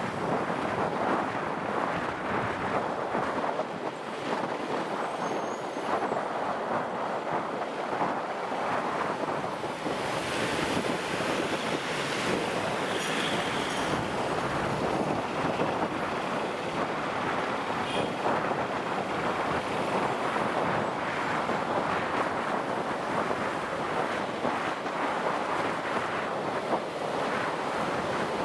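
Steady wind rush buffeting the microphone on a moving motorcycle, with engine and road noise mixed in.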